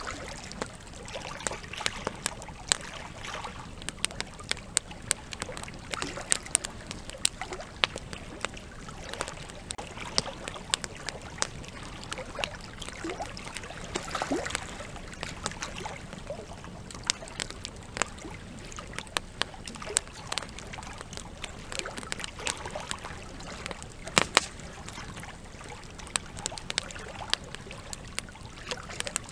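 Campfire crackling, with frequent sharp pops scattered irregularly over the steady rush of a flowing river.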